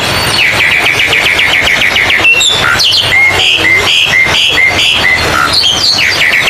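Oriental magpie-robin (kacer) song: a fast run of short chattering notes, then a string of clear whistled notes about twice a second, over a steady background hiss.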